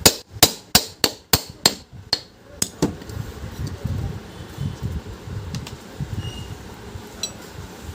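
Plastic hammer tapping a ceiling fan's motor cover down onto its bearing: about ten quick, sharp knocks at about three a second. They stop about three seconds in, leaving only low handling noise.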